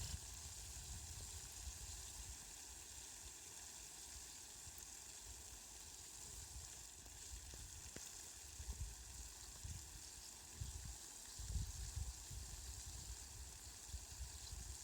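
Steady rain falling, an even soft hiss, with low rumbles coming and going in the second half.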